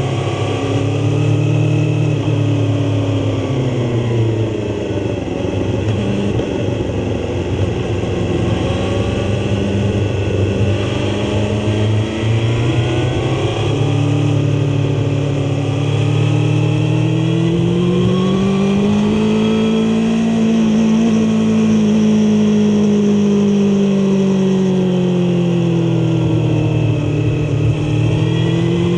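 Suzuki GSX-R750 K5's inline-four engine at track speed, heard from on board, its pitch rising and falling as the throttle is opened and closed through the corners.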